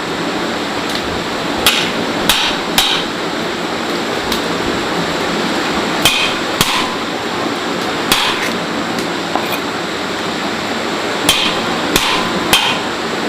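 Sharp, ringing knocks of hard blows, in bursts of two or three about half a second apart, the bursts a few seconds apart, over a steady hiss.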